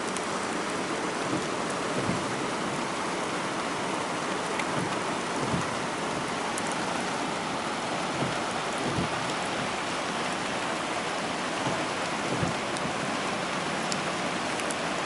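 Steady heavy thunderstorm rain, with a few scattered sharp drop ticks.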